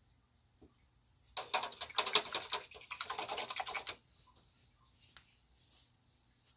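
A rapid, dense rattle of small clicks lasting about two and a half seconds, starting a little over a second in: an acrylic paint marker being shaken, its mixing ball clicking inside the barrel. A few faint ticks follow.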